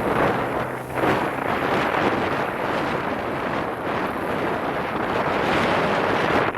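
Heavy wind buffeting the microphone, with a small dirt bike engine running underneath it.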